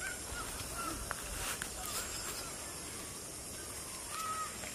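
Birds calling: a series of short, arched chirps every half second or so over a faint outdoor background, the longest chirp about four seconds in.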